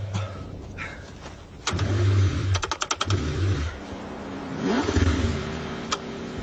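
A car engine cranking on a cold start in freezing weather, struggling to fire. It cranks in uneven bursts, with a quick run of clattering clicks a little before the midpoint and a longer stretch of engine sound in the second half.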